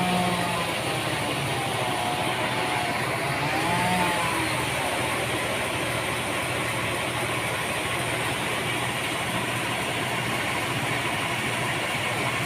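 Sawmill machinery running steadily, a constant engine hum under an even noise, with faint wavering tones in the first few seconds.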